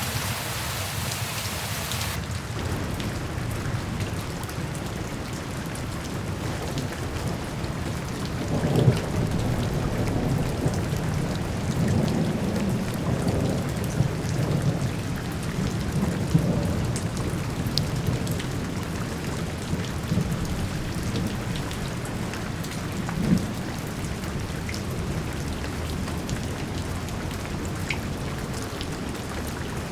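Steady rain with a sudden switch about two seconds in from a bright hiss to a duller patter. Thunder rolls low several times in the middle stretch, with a last rumble near the end.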